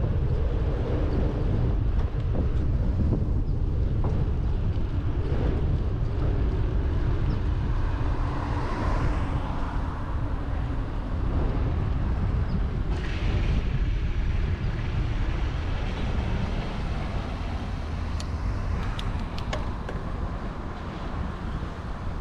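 Steady wind rumble on the microphone while cycling, with road traffic passing; a few light clicks near the end.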